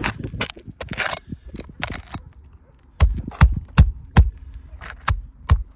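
Handling noise: scattered clicks and knocks, then from about three seconds in a run of heavy low thumps, roughly three a second.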